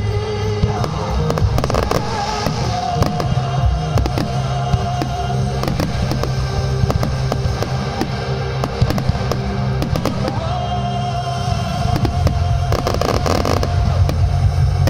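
Aerial fireworks bursting: a dense run of bangs and crackling pops from glittering shells. Music plays along underneath, with held notes and a steady bass.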